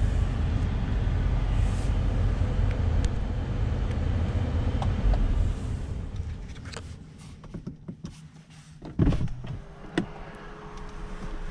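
Mercedes-AMG GT 63 S 4-door's twin-turbo V8 idling, heard from inside the cabin, until the low rumble falls away about six seconds in. Then come a few clicks, a loud thump as the driver's door is opened, a sharp click and a faint steady tone.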